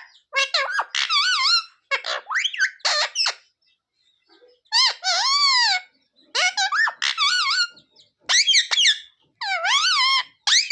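Pet green parrot vocalising in a string of short, high-pitched, pitch-gliding calls and chatter, pausing for about a second partway through before carrying on.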